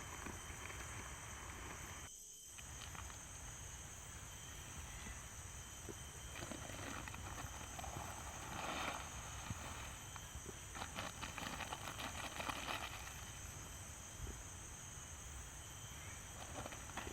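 Tropical forest ambience: a steady high-pitched insect drone, with bursts of rustling and crackling from about six to thirteen seconds in.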